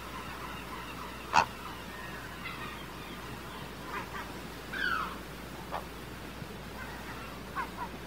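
Birds calling: a few short, sharp calls spaced a second or more apart, the loudest about a second and a half in, with a call that falls in pitch near the middle. Steady low background noise runs underneath.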